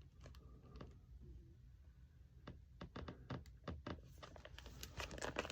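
Faint, scattered light clicks and taps from handling cross-stitch pattern charts, with more of them from about halfway through.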